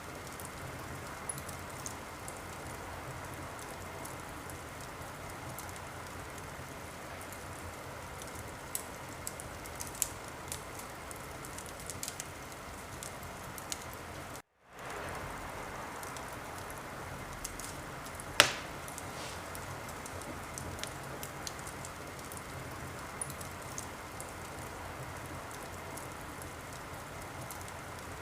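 Wood fire in a fireplace crackling: a steady hiss with scattered small snaps and one much louder pop about two-thirds of the way through. The sound cuts out completely for a split second about halfway through.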